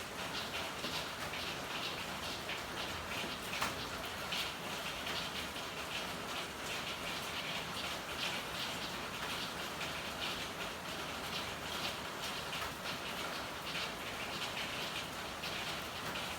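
Steady rain falling in an alley, a dense patter of drops on hard surfaces with scattered louder drips, one sharper tick about three and a half seconds in.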